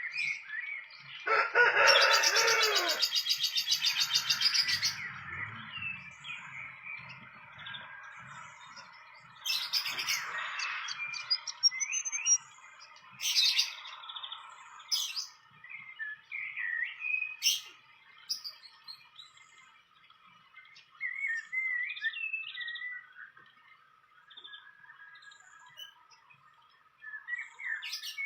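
Wild birds chirping, with short calls scattered through, over a steady high-pitched hum. A loud, harsh rasping burst about a second and a half in lasts roughly three seconds.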